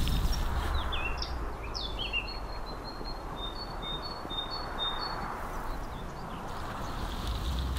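Small birds calling: a few quick chirps and whistles, then a run of short repeated high notes in the middle, over a steady outdoor hiss.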